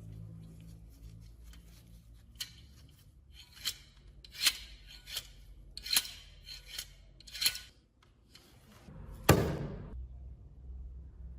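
A run of irregular sharp clicks and taps from hard lamp parts being handled, then one louder clank that rings briefly about nine seconds in.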